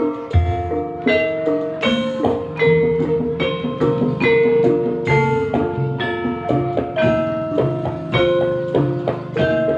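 Instrumental ebeg dangdut kreasi music: a rhythmic melody of struck, ringing pitched notes over percussion and a bass line.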